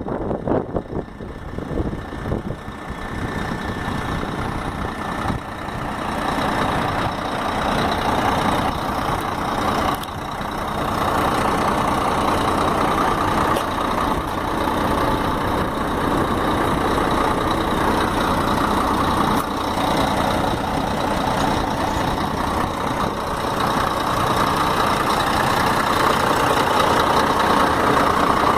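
Scania dump truck's diesel engine running, growing louder over the first ten seconds or so and then holding steady.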